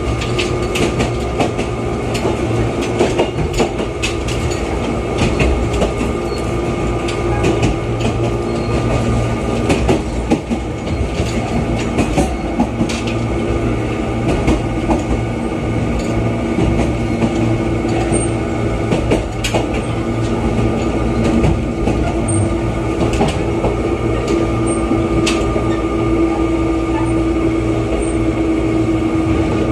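Running noise heard inside the cabin of an Oigawa Railway 21000 series electric train (ex-Nankai 'Zoom Car') under way: a steady rumble of wheels on the track with steady humming tones over it and many irregular clicks and clacks from the rails.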